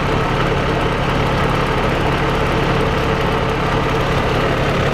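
Semi truck's diesel engine idling steadily, with a constant low hum and an even hiss above it.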